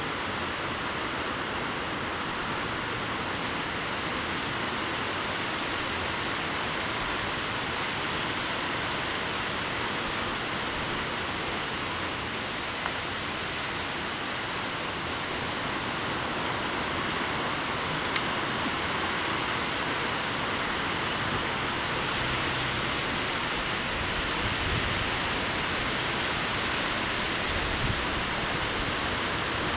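Heavy rain falling with wind: a dense, steady hiss, with a few low gusts of wind near the end.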